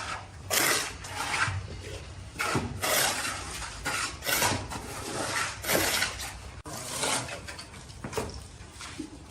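Tile-laying work: irregular scraping and rubbing strokes of tools on mortar and ceramic tile, about one a second, with a few sharper knocks.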